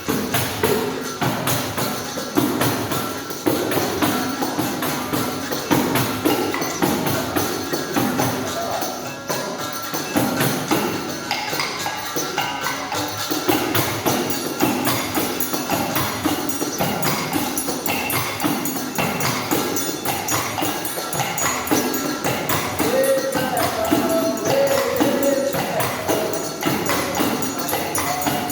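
Live capoeira music: pandeiro tambourine jingles and struck percussion in a steady, driving rhythm. Sustained pitched notes join in from about two-thirds of the way through.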